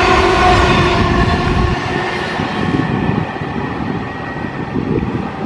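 Whoosh high-speed electric train passing close by at speed: a loud rush of wheel and air noise with a steady whine of several tones. About two seconds in it drops away suddenly to a quieter rumble.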